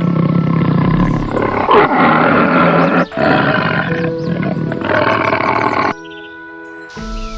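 An animal's loud, harsh, noisy call, held for about three seconds, then again for nearly three seconds after a brief break, over background music.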